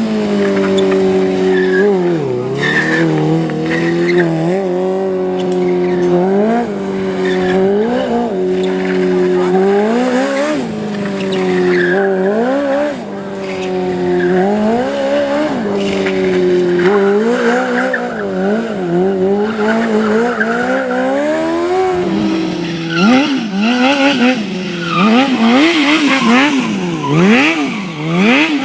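Motorcycle engine running with short throttle blips every second or two, its revs rising and falling. In the last several seconds the revs swing up and down quickly, with tyre squeal.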